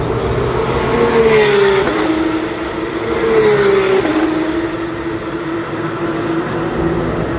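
Race cars passing at speed, two pass-bys about two seconds apart, the engine note dropping in pitch as each goes by over a steady engine drone.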